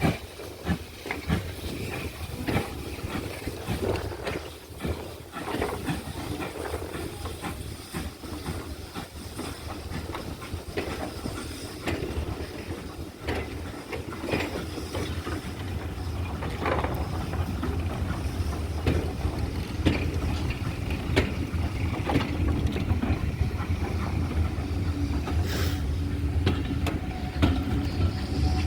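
Steam tank locomotive 4247, a GWR 2-8-0 tank, pulling away with a train: exhaust beats and steam hiss, with a low rumble that builds and grows louder through the second half.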